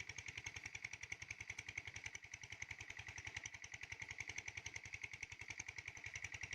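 A small engine running steadily, with a rapid, even beat.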